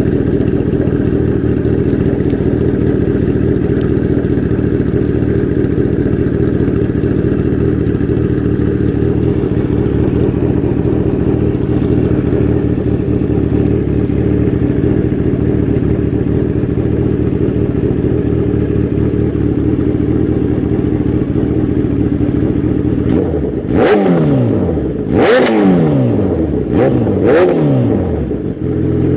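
Kawasaki ZX-10R inline-four idling steadily through a Coffman's slip-on exhaust with the baffle removed, then revved three quick times near the end, each rev falling back to idle.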